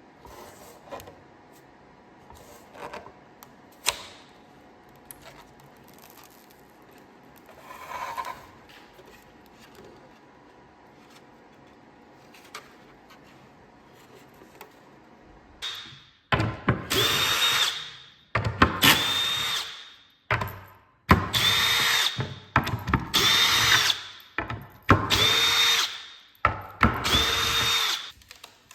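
Handheld electric drill or driver run in six short trigger bursts in the second half, each about a second and a half long at a steady pitch that sags as it stops. A few faint knocks come before it.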